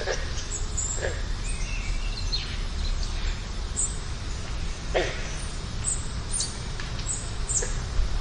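Wild birds chirping, with short high chirps throughout and a few sharp calls that drop quickly in pitch, over a steady low background rumble.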